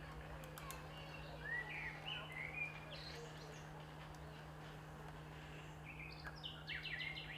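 Small birds chirping: a few short sweeping chirps, then a quick run of rapid notes near the end, over a steady low hum.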